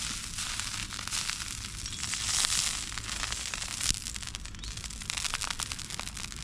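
Campfire crackling and hissing, with a steady hiss and many irregular small snaps.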